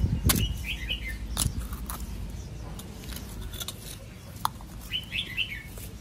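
A small bird chirping in two short runs of quick high notes, about half a second in and again near the end, with a few sharp clicks in between.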